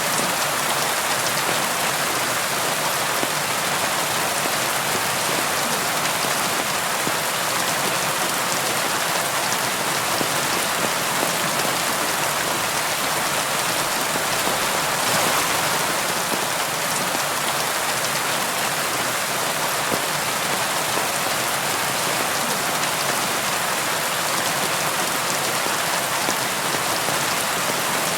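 Steady rain falling on a surface, an even hiss of many drops with a slight swell about halfway through.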